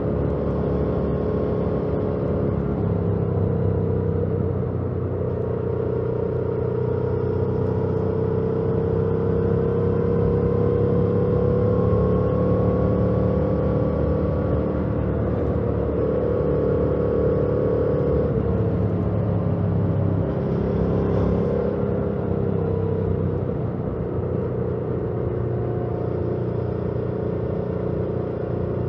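2018 Yamaha MT-07's parallel-twin engine with its stock exhaust, heard from the rider's seat while riding. The engine note rises gently through the middle stretch and drops about two-thirds of the way in.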